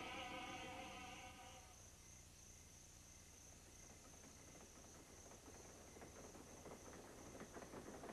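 Near silence: a held musical chord dies away in the first two seconds, leaving a faint steady high whine. Near the end, the faint rhythmic clatter of a train's wheels on rail joints fades in.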